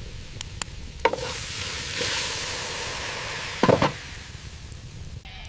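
Food sizzling in a hot pan for about three seconds, with a light knock about a second in and a louder knock near the end of the sizzle.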